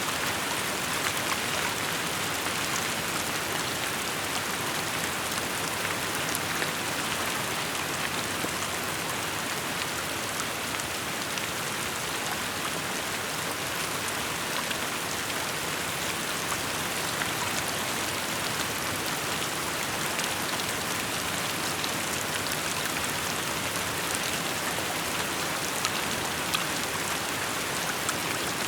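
Steady rain falling, a continuous even hiss with faint scattered drop ticks throughout.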